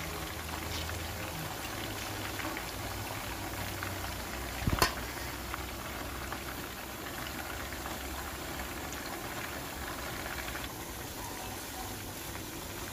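Chicken pieces frying in hot oil in a pan, a steady sizzling. A single sharp knock about five seconds in.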